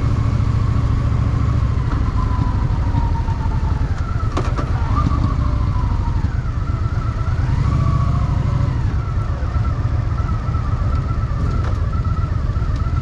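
Honda Shadow VT750's V-twin engine running steadily with a low, pulsing beat, its pitch dipping and rising a few times as the bike rides.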